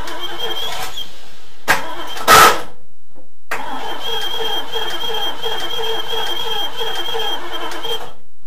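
Triumph Stag 3.0 V8 being cranked over on the starter motor in an attempt to start it: a steady, evenly pulsing churn with a high whine over it. A loud thump about two seconds in, and the sound cuts out abruptly twice.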